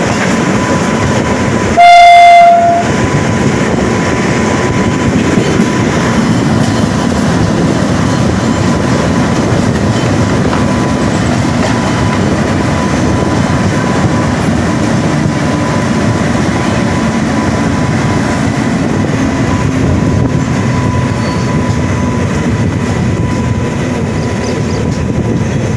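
Steady rumble and wheel clatter of an Indian express passenger train rolling along, heard from an open coach doorway. About two seconds in comes one short train horn blast, under a second long and the loudest sound.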